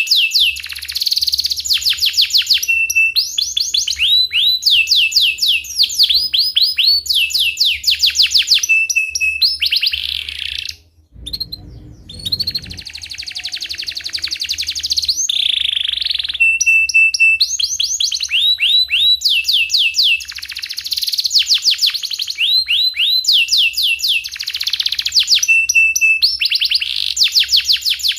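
Canary singing continuously: rapid repeated down-sweeping chirps and rolling trills, broken by short held notes. The song drops out briefly about eleven seconds in.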